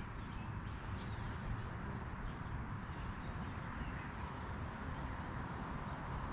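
Birds chirping in short high calls scattered throughout, over a steady hiss of outdoor background noise.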